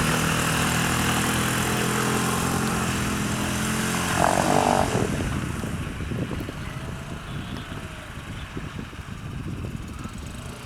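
Suzuki DF5 five-horsepower four-stroke outboard motor running steadily, then fading away about halfway through. A brief louder sound cuts in around four seconds in.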